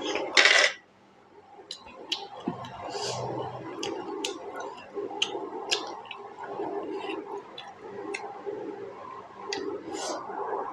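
Close-miked chewing of juicy pork momo dumplings: wet, squishy mouth sounds with irregular sharp lip smacks and mouth clicks, and a brief louder noisy burst just after the start.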